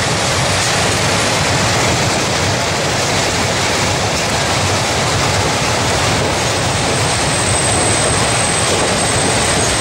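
Steady rolling noise of a freight train of tank wagons passing close by on the rails.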